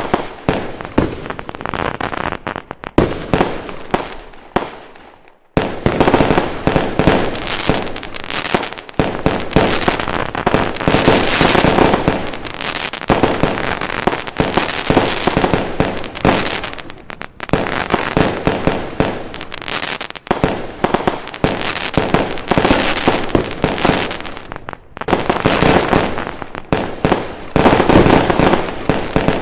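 Fireworks going off in a dense, rapid barrage of bangs and crackling. The barrage fades out about five seconds in, then starts again abruptly with a loud volley.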